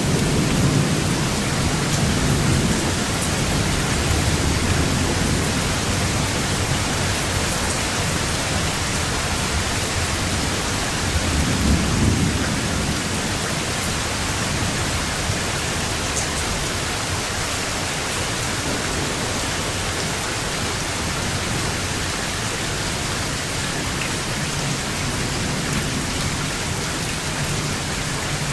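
Steady heavy rain, with thunder rumbling low beneath it, swelling in the first few seconds and again about twelve seconds in.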